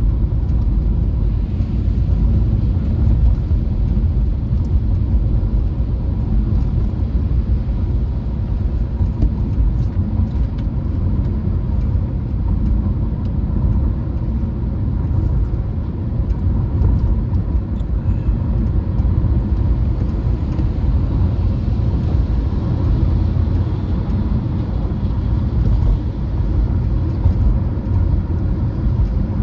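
Steady low rumble of a car driving, the road and engine noise heard continuously.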